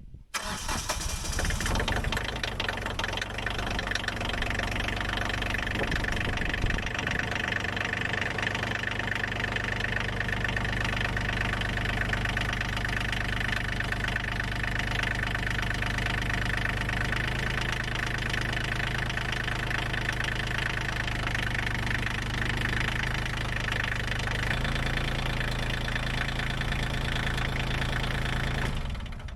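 Bobcat CT122 compact tractor's diesel engine starting right after its glow plugs have warmed, then idling steadily with a diesel knock.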